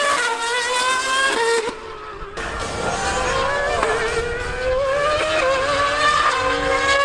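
High-revving racing engine running at speed, its pitch climbing repeatedly through the gears with a brief drop in level about two seconds in: a Formula One car or the 1000cc superbike racing it.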